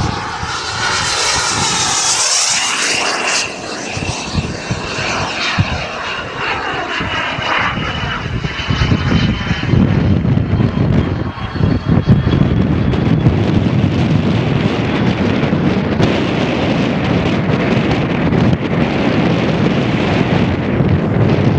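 Radio-controlled model aircraft flying past, its engine a steady high note that slowly drops in pitch as it goes by. From about eight seconds in, wind buffets the microphone with a loud low rumble that mostly covers the engine.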